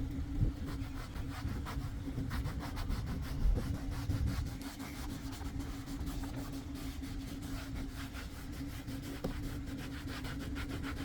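A brush scrubbing a car's interior door panel in quick back-and-forth strokes, working cleaner into a greasy surface, over a steady low hum.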